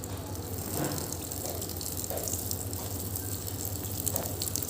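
Tap water running and splashing steadily as a birdcage and its parts are washed under it.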